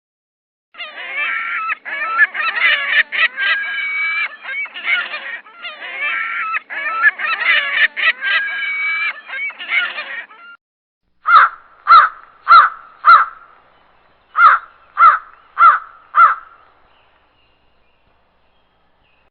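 Bird calls: a flock honking over one another for about ten seconds, then, after a short pause, eight single loud honks in two sets of four.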